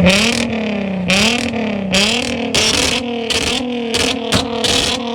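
Car engine revving hard and held at high revs, its pitch dipping and climbing back about once a second before holding steady, with pulses of hiss over it.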